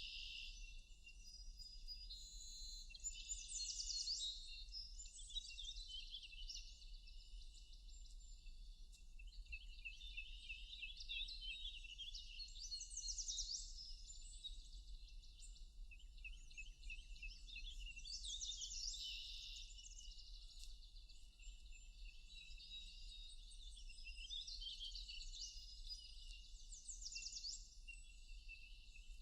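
Several songbirds singing at once in a forest dawn-chorus style, with quick chirps and fast trills throughout, over a faint steady low hum.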